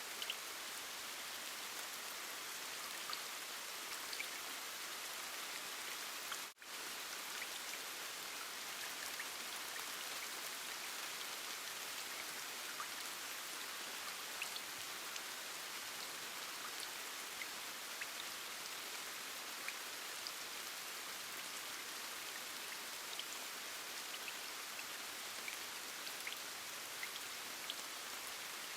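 Steady rain with scattered small drop ticks. The sound cuts out for a split second about six and a half seconds in.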